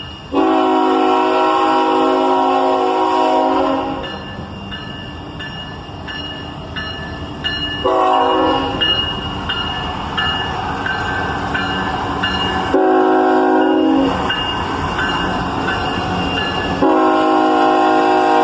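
Multi-chime air horn of an approaching freight train, led by a GE ET44AH locomotive, sounding a chord in four blasts: one long, two shorter, then another long one starting near the end. The train's rumble grows louder between the blasts.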